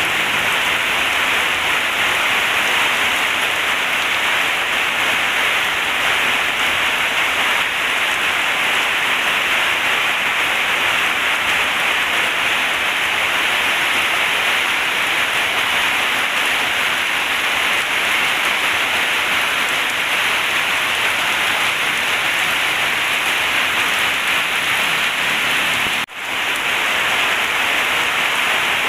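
Heavy rain pouring down steadily in a dense, even hiss, with a momentary dropout near the end.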